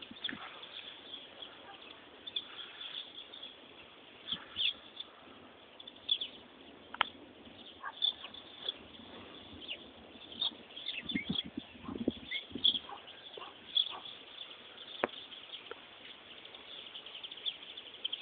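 Small birds chirping on and off in short, high calls. There are a few sharp clicks, and some low knocking and rustling around the middle.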